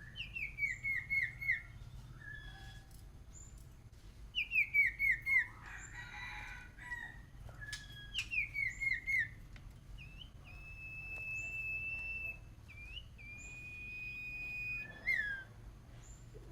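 Songbird known to keepers as huýt cô (sirtu) singing in a fired-up state: three quick runs of about five descending whistled notes, then two long steady whistles and a final down-slurred note. A brief rustle, like wing flapping, about six seconds in.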